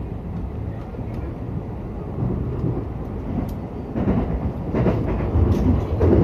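Running noise of a local electric train heard from on board: a steady low rumble of wheels on rail with a few light clicks, growing louder toward the end.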